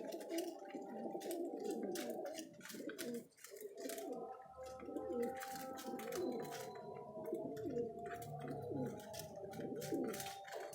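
Many domestic pigeons cooing over one another in a loft, a dense continuous chorus, with frequent sharp clicks mixed in.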